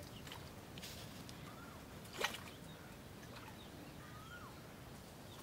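Quiet outdoor ambience with a few faint, brief bird chirps and a single sharp click a little past two seconds in.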